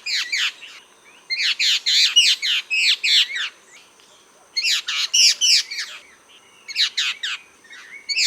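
Orange-billed babblers (Ceylon rufous babblers) calling: bursts of rapid, squeaky chattering notes, several groups broken by short pauses, typical of a noisy flock.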